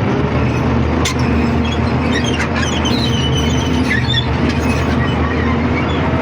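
Small diesel locomotive running steadily under load as the train rolls along, with the rumble of the carriage on the track. A few brief high squeals from the wheels come around the middle.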